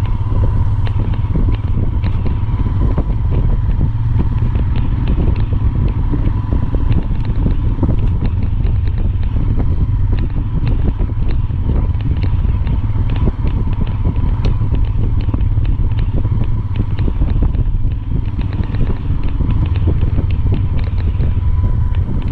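Strong wind buffeting the microphone: a steady low rumble with constant crackling, and a faint steady hum underneath.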